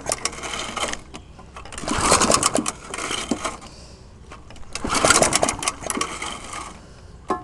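Old lawnmower engine being cold-started with its pull cord: three pulls about three seconds apart, each a short burst of rapid cranking and firing that dies away instead of catching and running.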